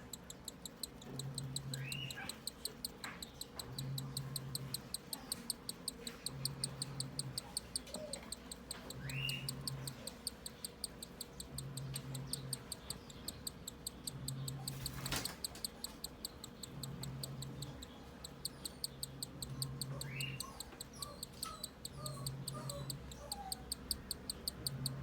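Newly hatched cockatiel chick begging while being fed, a fast, even ticking that runs on without a break, with a few short rising chirps. A low hum comes and goes about every two and a half seconds.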